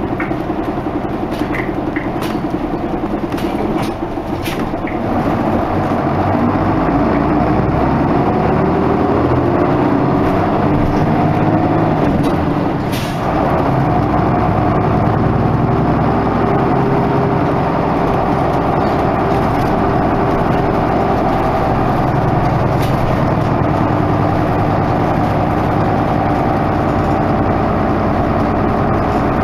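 Isuzu Erga Mio bus's diesel engine under way, picking up speed with rising pitch about five seconds in. It eases off briefly near the middle, then runs steadily. There are several sharp clicks or rattles early on.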